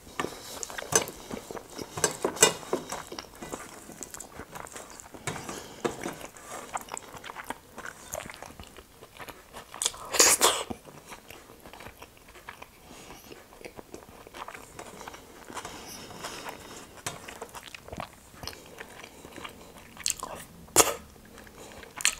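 Close-up eating sounds of someone chewing a last mouthful of rice and dal with scattered wet mouth smacks and clicks, together with fingers picking rice grains off a steel plate and being licked. There is a louder burst about ten seconds in and another near the end.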